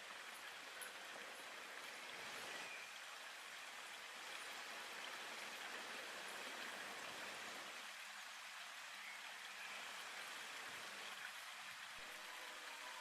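Faint, steady rushing noise, like running water or rain, with no distinct events in it.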